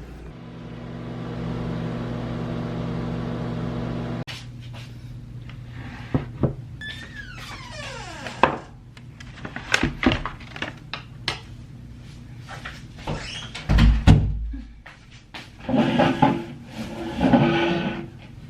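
Microwave oven running with a steady electrical hum that stops abruptly about four seconds in, followed by scattered clicks and knocks of the door and a dish being handled, with one heavy thump past the middle.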